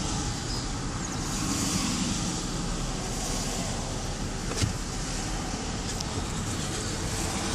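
Car tyres running through floodwater on a highway, a steady hiss of spray over a low road rumble, with one short click a little past halfway.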